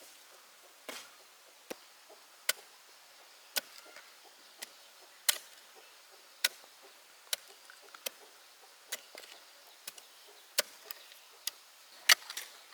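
Hand-tool strikes on wood, sharp and single, coming about once a second at an uneven pace, some much louder than others.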